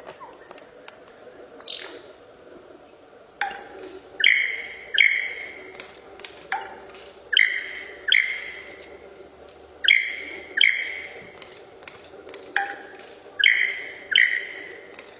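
A bird calling over and over: short, loud, slightly falling nasal calls, many coming in pairs, one pair every couple of seconds.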